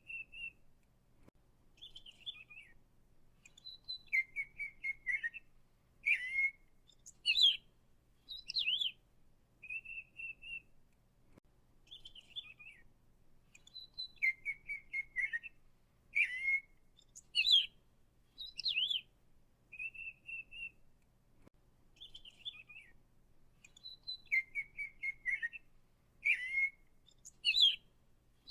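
Songbird chirps and calls: short whistled notes, quick trills and up-and-down glides, with the same sequence of calls recurring about every ten seconds.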